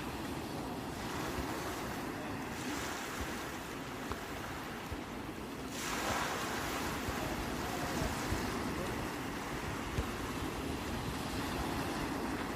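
Sea waves breaking and washing onto the shore in a continuous surf, with a wave surging in about six seconds in. A low rumble of wind sits underneath.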